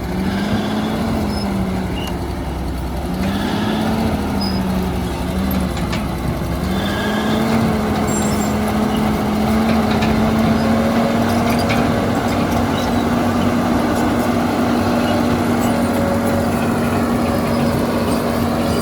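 Heavy machine's diesel engine running, its revs rising and falling several times, then holding steady at a slightly higher pitch from about seven seconds in.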